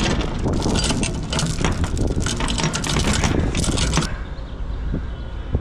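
Wind buffeting the microphone along with irregular clicks and rattles. About four seconds in it cuts abruptly to a quieter, steady rumble.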